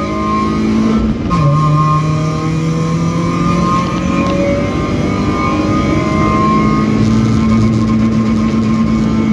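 BMW E36 318ti's M42B18 1.8-litre four-cylinder engine under hard acceleration, heard from inside the car. About a second in, the pitch drops sharply with an upshift, then climbs steadily as the revs build again.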